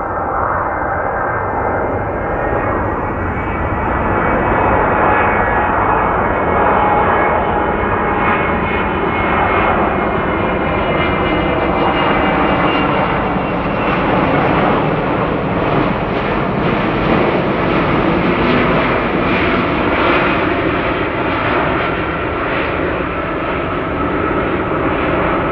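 Jet engines of a Boeing 767-300 freighter, running loud and steady, with several whining tones over the engine noise that slowly shift in pitch.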